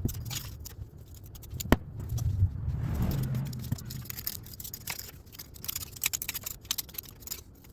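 Small metal parts and tools being handled on a workbench: a run of light clicks and scrapes, with one sharper click about two seconds in and a duller rumbling scrape just after.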